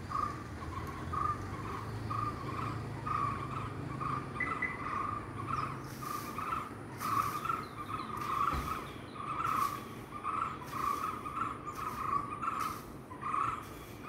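Birds in a tree chirping, one short note repeated about twice a second without a break.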